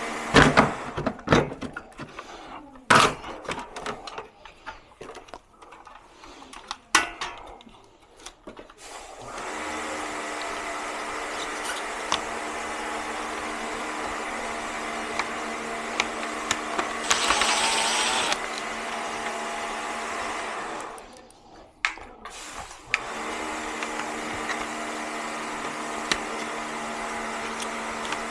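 Scattered clicks and knocks from parts being handled, then an electric motor-driven machine runs steadily with a constant hum. It is interrupted briefly by a louder hiss and, a little later, by a short pause with a few more knocks.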